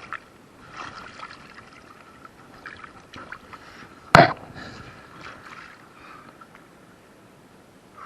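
Kayak on moving water: faint paddle and water swishing with small knocks, and one sharp, loud hit about four seconds in.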